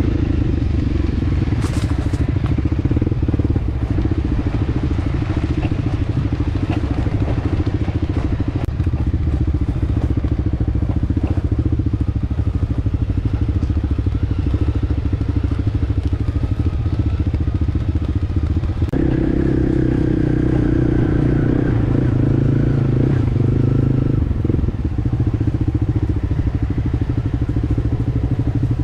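Dual-sport dirt bike engine running steadily while riding, the note changing abruptly about two-thirds of the way through.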